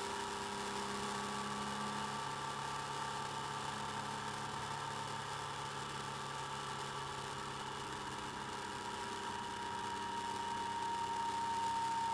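Motorcycle engine running steadily at cruising speed, heard through a bike-mounted camera's mic as an even drone of several steady tones, getting slightly louder near the end.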